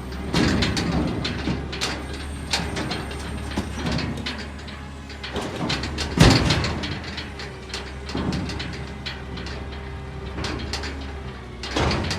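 Garbage truck's engine running steadily under repeated metallic clanks, knocks and creaks of the truck's equipment at work, with a heavy bang about six seconds in.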